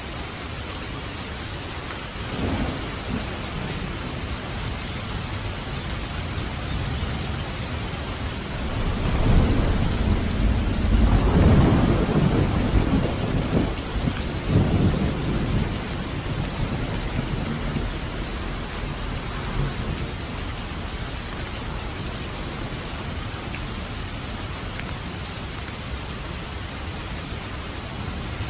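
Steady rain on a roof with thunder: a short rumble a couple of seconds in, then a long rolling thunderclap that builds for about six seconds and fades.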